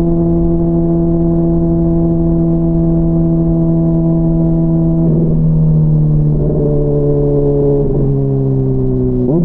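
Honda CBR600RR inline-four engine running under way on the motorcycle, holding a steady note for about five seconds. Then the engine note changes in a few small steps and eases gradually lower, with a quick rev rise just at the end.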